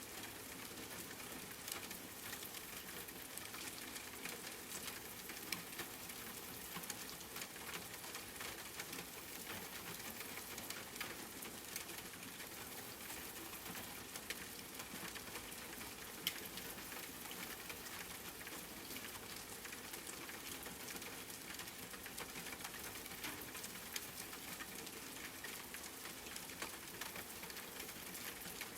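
Steady rain falling, with many small drop ticks on a hard surface over an even hiss.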